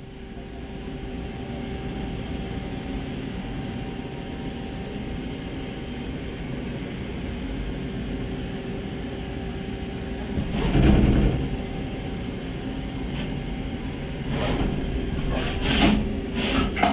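Enshu JE30SH horizontal machining center running: a steady mechanical hum with a faint steady whine, a louder rush of noise about two-thirds of the way through, and a few short clunks near the end.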